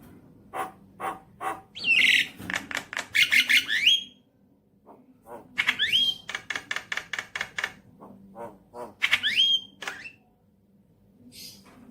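Javan myna (jalak kebo) singing: three bouts of fast, harsh clicking rattles and chatter, each ending in rising whistled notes.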